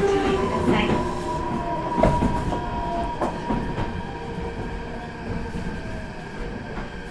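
Meitetsu 4000 series electric train heard from inside the car, slowing down: the inverter and motor whine sits in a few steady tones that sink slightly in pitch, with occasional wheel clicks over rail joints, and the running noise grows gradually quieter.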